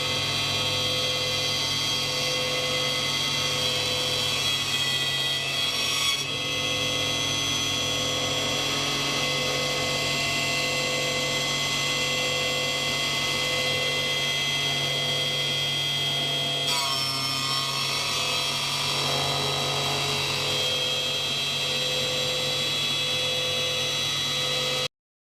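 A woodworking machine's motor running steadily with a high whine. Its sound shifts slightly twice, and it cuts off suddenly near the end.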